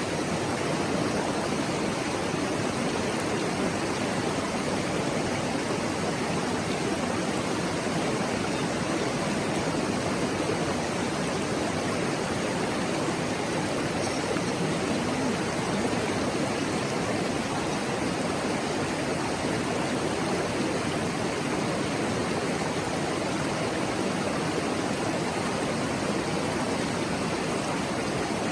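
A mountain stream babbling steadily, its flowing water making a constant even rush.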